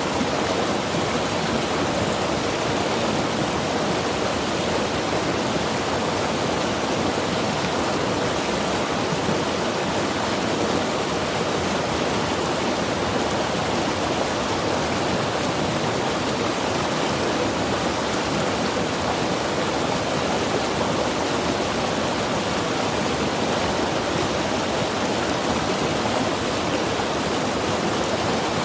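Mountain river rushing steadily over rocks: a constant, even roar of moving water with no breaks.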